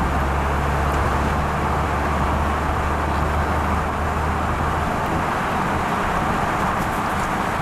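Steady rushing road and wind noise from a moving vehicle, with a low engine hum that fades away about five seconds in.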